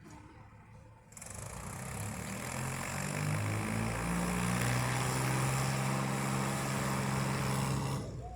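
Tractor engine, loud, coming in suddenly about a second in and rising in revs for a couple of seconds, then running steadily at speed before cutting off suddenly near the end.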